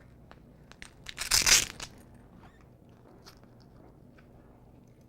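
A short rasp of a Velcro hook-and-loop band, the loudest sound, about a second in. Light clicks of the metal prong collar's links are scattered around it.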